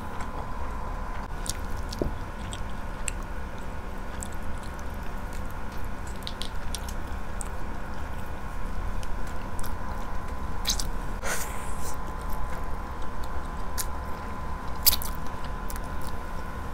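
Close-up chewing and mouth sounds of a person eating grilled chicken with rice by hand, with scattered sharp clicks and smacks and the tearing of chicken meat. A steady faint high hum runs underneath.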